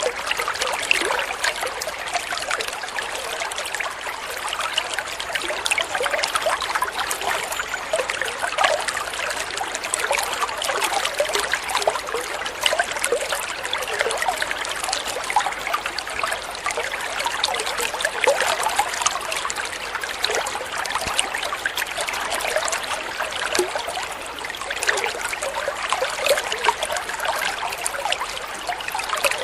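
Flowing water trickling and splashing steadily, a small stream running over stones.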